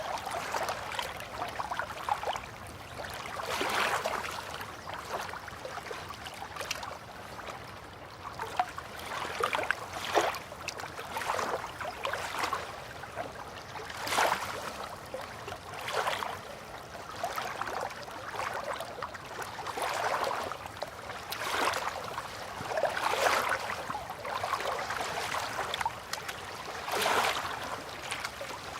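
River water lapping and splashing in small waves, one uneven swell every second or two over a soft steady wash.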